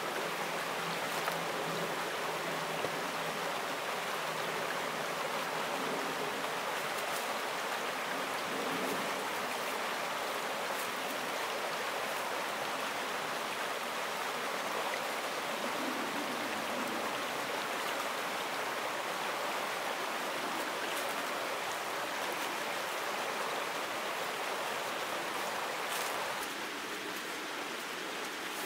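Steady rushing of a running stream, dropping slightly in level near the end.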